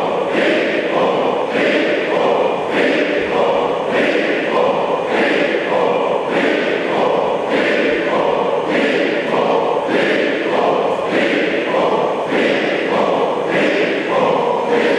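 A group of aikido practitioners chanting kiai in unison during the torifune rowing exercise. Two different shouts alternate in a steady rhythm, about one pair every second and a half, keeping time with the rowing strokes.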